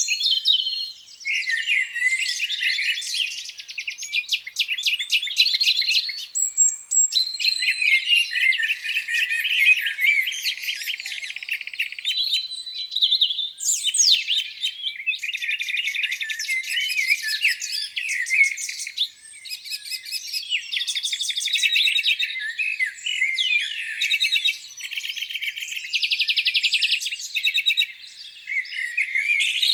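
Several songbirds singing at once, overlapping chirps, warbles and fast trills with no break.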